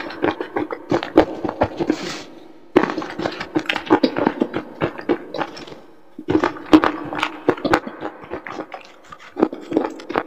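Close-miked crunching and chewing of slate pencil crumbles mixed with a paste: runs of rapid crisp crunches, separated by short pauses between bites.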